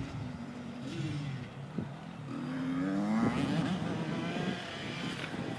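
Dirt bike engine running on the track, its pitch rising as it revs up about halfway through and loudest a little after the middle.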